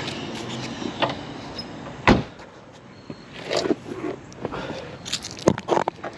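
A series of knocks and clunks from handling the body of a 1986 Chevrolet C4 Corvette, with one sharp knock about two seconds in the loudest and a cluster of clunks near the end.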